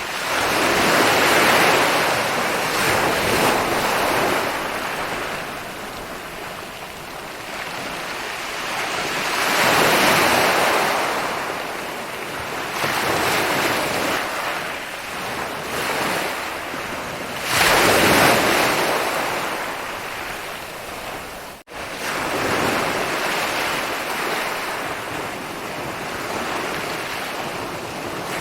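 Ocean waves rolling in and breaking on a beach, the wash swelling with each wave about every eight seconds, the loudest surge about two-thirds of the way through. A momentary dropout comes shortly after that surge.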